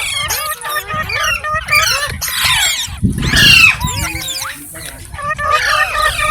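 Indian ringneck parakeet chattering in a rapid run of gliding whistles and chirps, with a louder, harsher call about three seconds in.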